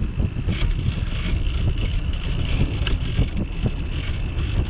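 Wind buffeting the microphone of a camera mounted on a moving bicycle, with a low, uneven rumble from the ride and a single sharp click about three seconds in.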